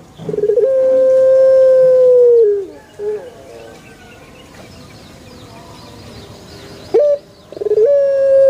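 Male puter dove (domestic Barbary or ringneck dove) cooing: a long drawn-out coo that opens with a short rolling note about half a second in, holds one steady pitch for about two seconds and drops away at the end. A short note follows at about three seconds, and another coo begins about a second before the end.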